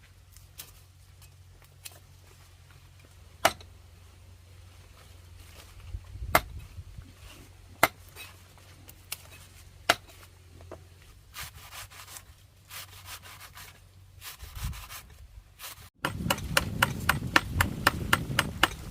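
Scattered wooden knocks and rubbing from handling things on a wooden surface in the kitchen. About three quarters through, after a sudden cut, comes a louder fast run of sharp knocks, roughly six a second.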